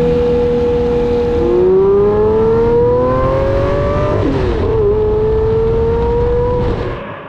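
Lamborghini Murciélago SV's 6.5-litre V12 under way, its revs dropping at a gear change about a second and a half in and climbing as it pulls. After another shift about four seconds in, it settles to a steady drone, and it gets quieter near the end.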